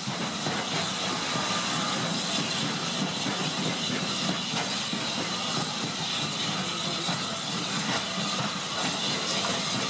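Steady rumble and hiss of a slow-moving train, heard from on board.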